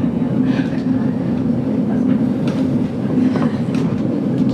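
GoldenPass Belle Époque vintage railway carriage running along the line, heard from inside the carriage: a steady low rumble of wheels on rail with a few light clicks and creaks scattered through it.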